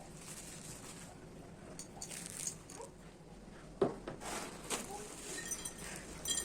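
Faint handling noises of kitchen items being put away: a few light clicks and knocks, the sharpest about halfway through, with some soft crinkling.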